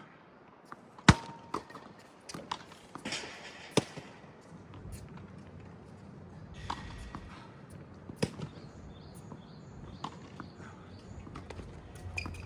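Tennis rally: sharp pops of a tennis ball struck by rackets and bouncing on the court, the loudest about a second in, over low wind rumble on the microphone.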